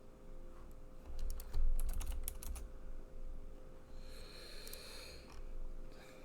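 Typing on a computer keyboard: a quick run of keystrokes between about one and three seconds in, then a soft hiss a little later.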